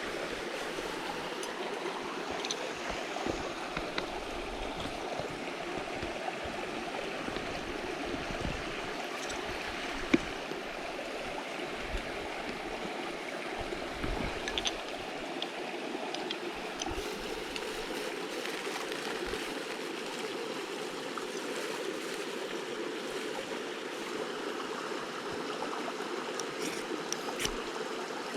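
Mountain stream running steadily over rocks, a continuous rushing and gurgling of water. There are a few faint clicks, and one sharper click about ten seconds in.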